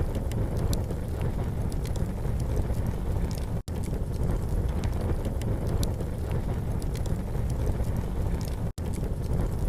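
Campfire crackling, with scattered sharp pops and snaps over a steady low rumbling noise. The sound cuts out for an instant twice.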